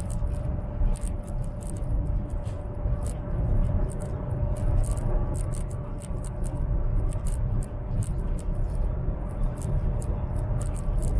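Cabin noise of a high-speed train running at speed: a steady low rumble with a faint steady hum above it, and frequent small irregular clicks throughout.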